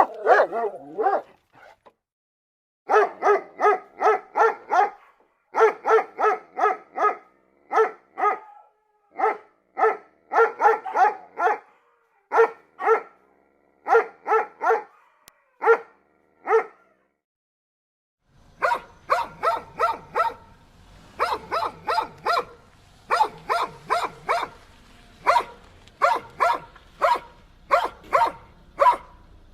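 A dog barking in quick runs of short, high barks, several a second, with brief pauses between runs. From about two-thirds of the way in, the barking goes on over a steady low background hum.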